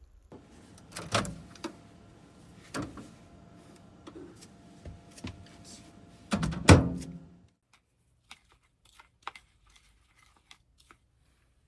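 A few knocks and thuds of things being handled in a small enclosed space, the loudest about seven seconds in, over a steady faint hum that stops soon after; a few light clicks follow.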